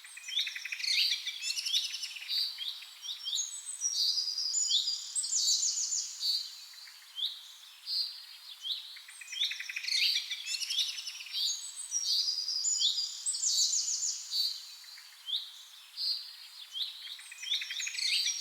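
Songbird singing: phrases of quick sweeping chirps and rapid high trills, one after another, returning every few seconds.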